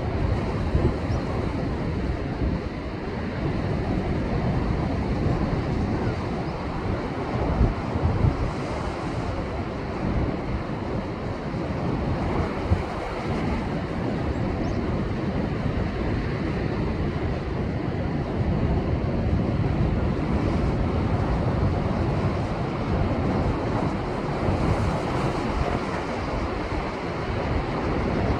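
Rough post-typhoon surf breaking and surging against a rocky shore: a continuous low rush, with stronger surges around 8 seconds and 12 seconds in. Wind buffets the microphone throughout.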